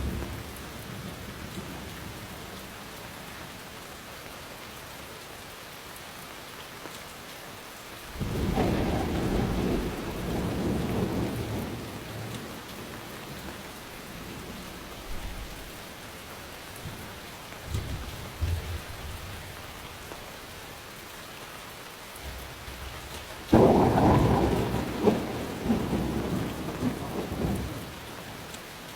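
Steady rain with rolling thunder. A rumble of thunder comes in about eight seconds in and lasts a few seconds. A louder crack of thunder about two-thirds of the way through rolls on for several seconds.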